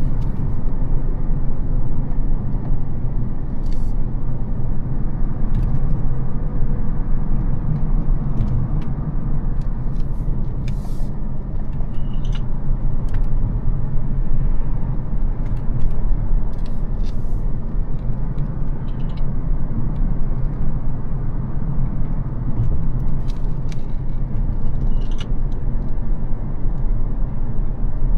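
Mercedes CL600's 5.5-litre twin-turbo V12 (M275) and its tyres while driving: a steady low rumble with no big rev changes, and scattered faint clicks.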